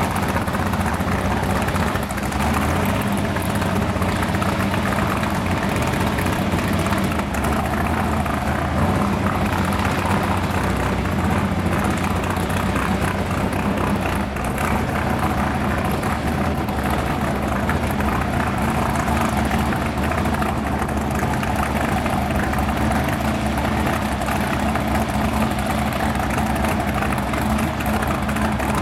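A 1928 Ford rat rod's 820-cubic-inch Jon Kaase race V8 idling steadily while the car waits at the start of a drag run.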